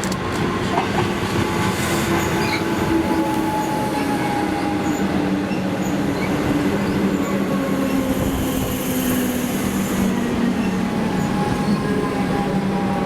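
Electric suburban train running through the station, its wheels clicking over the rail joints under a steady whine that drifts slowly in pitch.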